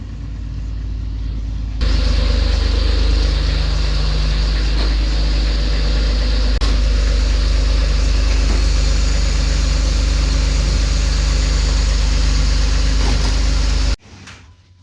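Jeep TJ's 4.0-litre inline-six engine running at idle, steady and loud from about two seconds in until it cuts off abruptly near the end. Its typical 4.0 tick has turned into a tock, which the owner takes for cylinder 5 failing.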